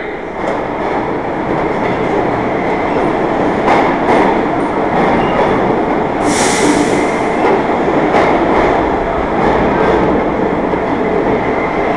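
New York City subway train running in the station, a steady rumble with scattered sharp clicks from the wheels and track. About six seconds in comes a brief, loud hiss that fades over about a second.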